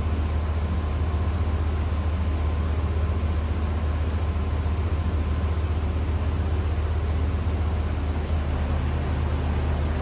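Fanco Windward 452LA hugger ceiling fan with a spinner motor running steadily on medium speed: a low motor hum with the rush of air from the blades.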